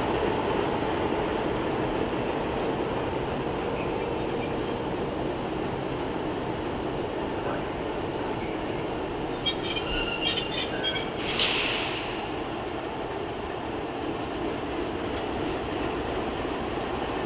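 Diesel passenger train led by an ALCO/MLW FPA locomotive rolling past with a steady rumble. Thin, high wheel squeal comes and goes for the first several seconds. A cluster of clicks follows about ten seconds in, then a short hiss.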